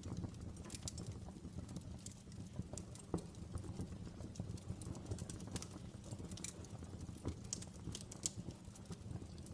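Wood fire crackling, with irregular sharp pops several times a second over a low, steady rumble.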